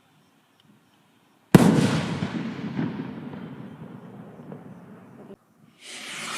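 Firework rocket's 3-inch shell bursting with a single sharp bang about a second and a half in, followed by a long fading rumble that cuts off suddenly. Near the end a rushing hiss starts up.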